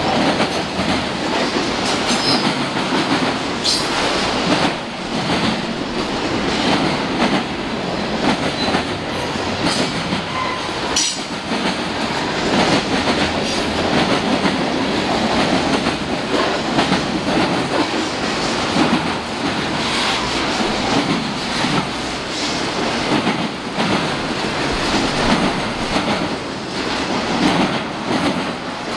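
A CN freight train's covered hoppers and boxcars rolling past close by, steel wheels clacking rhythmically on the rails, with brief wheel squeals now and then.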